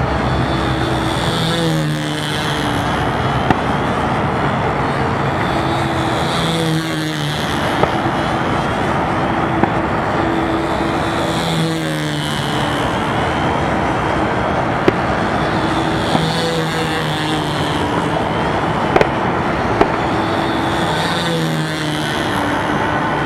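Control-line model airplane's small engine buzzing steadily as the plane circles on its lines, swelling and sliding in pitch about every five seconds as it sweeps past on each lap.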